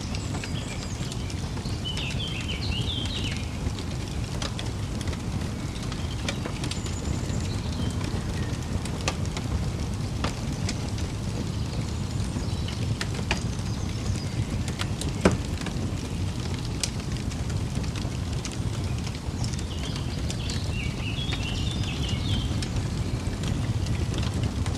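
Wood fire crackling over a steady low rumble, with scattered pops and one louder sharp pop about fifteen seconds in. A bird chirps a short run of quick notes near the start and again near the end.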